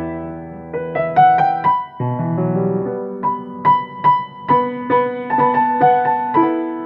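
Piano played four-hands: a gentle melody over held bass notes, each note struck and left to ring, from a medley of Japanese autumn children's songs.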